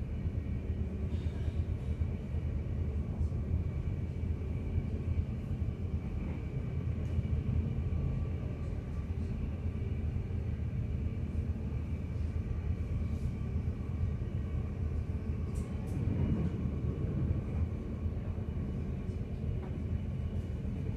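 Passenger train running at speed, heard from inside the carriage: a steady rumble of wheels on rail, with a few faint clicks.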